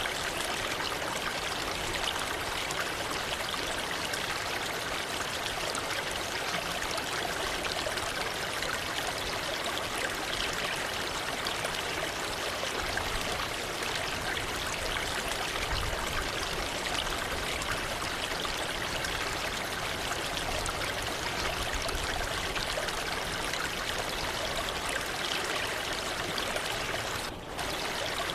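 Waterfall water falling and splashing in a steady, unbroken rush, with a brief dip in level near the end.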